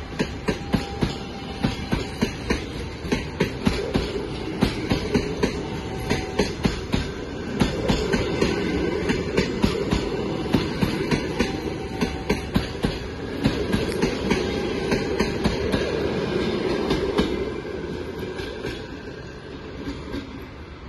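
Railway carriage wheels clacking over rail joints in a steady, repeating clickety-clack over a low rumble. The clacks die away and the sound drops in level about seventeen seconds in.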